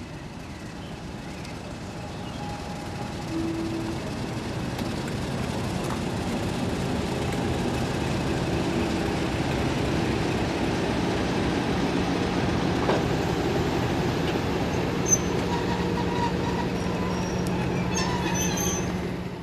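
Diesel locomotive running, its steady engine drone growing louder over the first half as it draws near, with a few brief high squeals from the wheels near the end.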